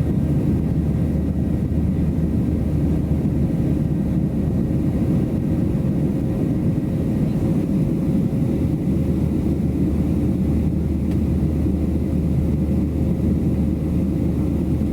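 Steady cabin noise of a Boeing 737-700 airliner: a constant low rush of engine and airflow noise with a faint steady hum above it, unchanging in level.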